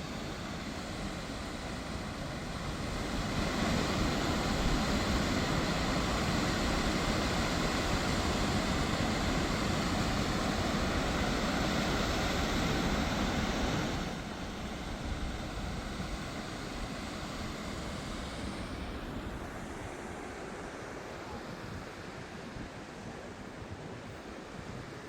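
Waterfall on the Elk River, water rushing steadily over a stone ledge. It grows louder a few seconds in, drops suddenly about halfway through, and fades a little more toward the end.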